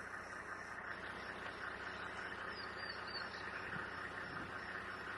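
Steady outdoor background hiss with three faint, quick high bird chirps a little past halfway.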